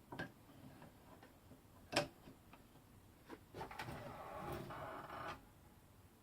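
Small pieces of wood handled and set down on a workbench: scattered light clicks and knocks, a sharp knock about two seconds in, then a couple of seconds of scraping and shuffling as the wood is shifted into place.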